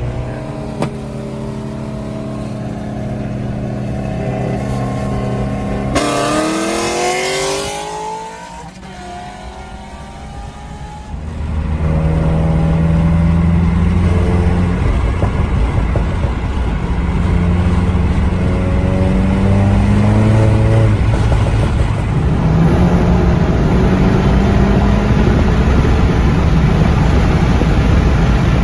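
Car engine accelerating hard. Its pitch climbs and drops back several times as it shifts up through the gears, after an earlier rev about six seconds in.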